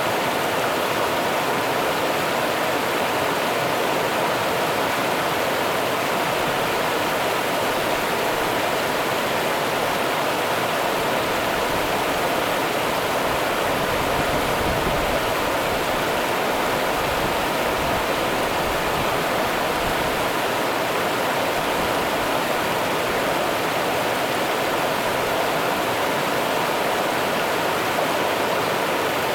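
Rio Grande river water rushing, a steady, even hiss with no change.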